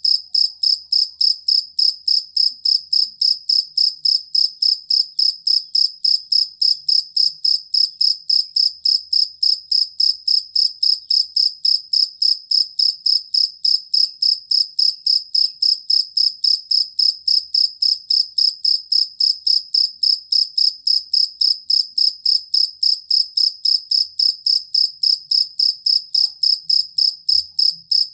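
Field cricket (jangkrik kalung) chirping steadily, about three evenly spaced high-pitched chirps a second with no pause.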